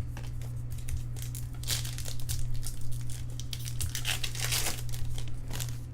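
A foil trading-card pack wrapper being crinkled and torn open by hand: irregular crackling, heaviest about two seconds in and again a second before the end, over a steady low electrical hum.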